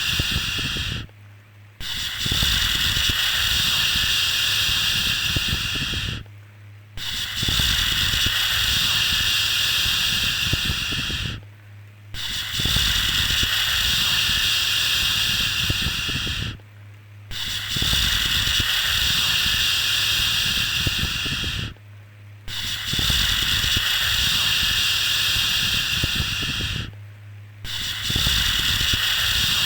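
Repeated shushing 'shhh' sound for lulling a baby: each 'shhh' lasts about four and a half seconds, followed by a short break, then starts again, about every five seconds.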